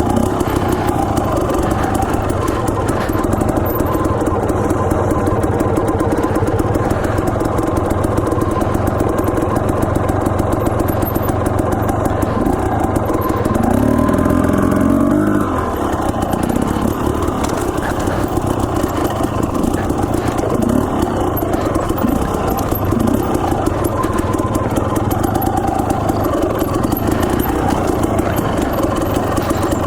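Dirt bike engine running hard under way on a trail. About halfway through it revs up for a couple of seconds, rising in pitch, then drops off suddenly as the throttle is closed.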